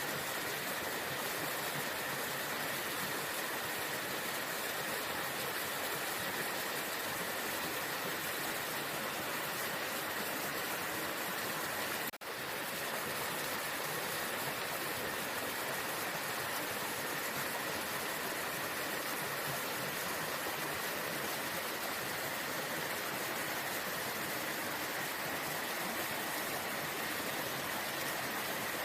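Waterfall: a steady, even rush of falling water, with a momentary dip and click about twelve seconds in.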